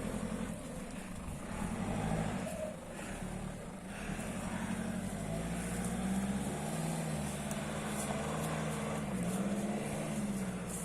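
Nissan Patrol Y61's engine running under load off-road, its pitch sagging and rising again as the throttle changes.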